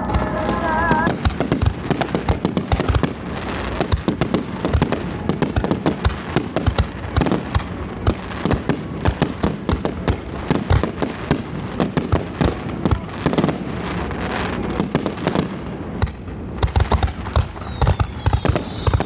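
Fireworks display: a dense barrage of aerial shell bursts and crackling, with rapid bangs following one another throughout. A thin, high whistling tone falls in pitch near the end.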